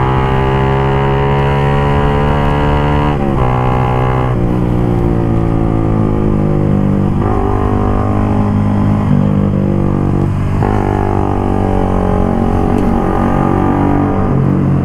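Suzuki GSX-R150's single-cylinder engine running under way through an aftermarket exhaust, its note gliding in pitch and stepping up or down several times as the revs change with throttle and gear changes.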